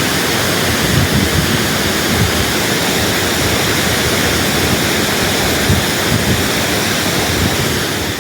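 Steady, loud rush of a large waterfall cascading down rocky steps, its water noise unbroken throughout.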